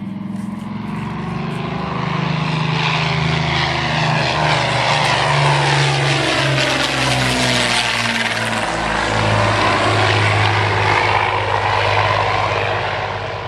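Propeller airplane flying past: its engine note swells in the first couple of seconds, drops in pitch as it goes by, and fades away near the end.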